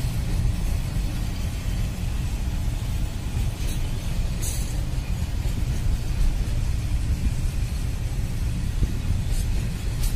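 Container freight train's wagons rolling past: a steady low rumble of wheels on the rails, with a few sharp clicks about four seconds in and again near the end.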